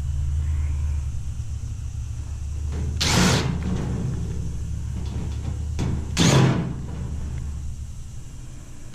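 Low rumble of passing road traffic, fading near the end, with two short, loud scraping noises about three seconds apart as a stainless steel panel is worked loose.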